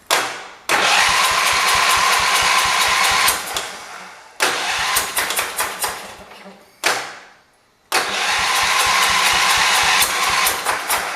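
The 1978 John Deere 208's single-cylinder engine being cranked by its electric starter in three long spells of rapid chugging with a whine, a click before some of them, without settling into a run. This is a start attempt testing a fresh carburetor mixture-screw setting.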